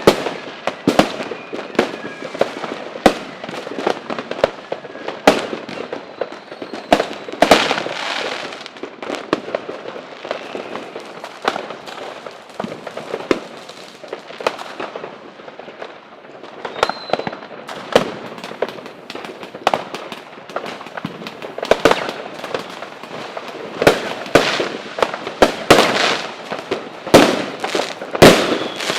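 Aerial fireworks display: a continuous run of shell bursts, with sharp bangs at irregular intervals, several a second at the busiest moments, over steady crackling. Faint rising whistles are heard now and then.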